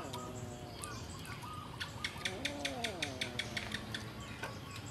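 Birds calling outdoors: gliding, pitch-falling calls, with a run of rapid sharp clicks, about six a second, for about two seconds midway.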